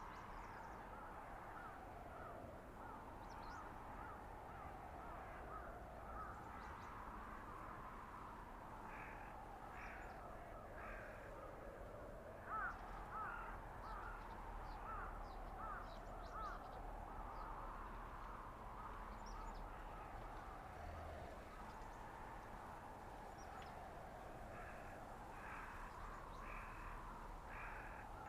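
Blizzard wind howling, a whistling tone that slowly rises and falls over a steady hiss. Twice, a bird calls in a short run of repeated calls.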